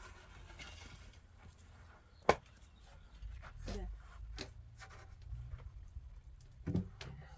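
Scattered knocks and taps of building work, with one sharp, loud knock about two seconds in and a duller thump near the end.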